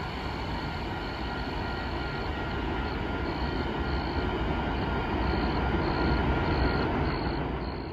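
Freight train cars rolling away on the track: a steady rumble of wheels on rail, with a thin, high wheel squeal that comes and goes in short streaks.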